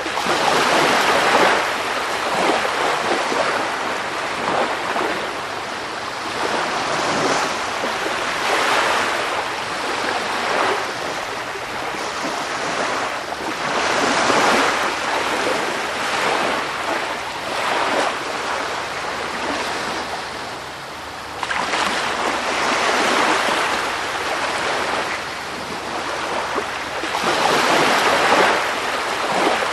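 Sea surf: waves washing in as a continuous rushing hiss that swells and ebbs every few seconds. About 21 seconds in, the level jumps up abruptly.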